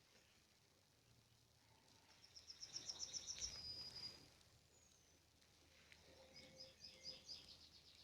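A songbird singing two phrases, each a quick run of high repeated notes, the first ending in a short held whistle; faint.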